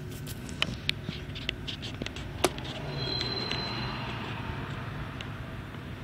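Freight train of covered hopper cars rolling slowly past: a steady low rumble with irregular sharp clicks and clanks from the wheels and couplings, and a brief high squeal about three seconds in.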